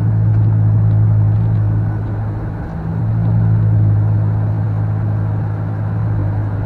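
Car engine and road noise: a steady low drone that eases slightly around three seconds in and then rises again.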